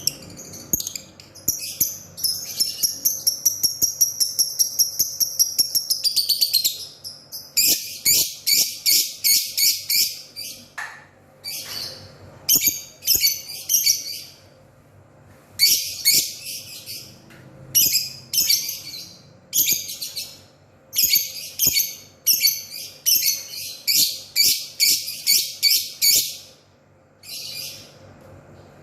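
Lovebird singing: a long, high, shrill trill of about five seconds, then repeated runs of rapid chirps separated by short pauses.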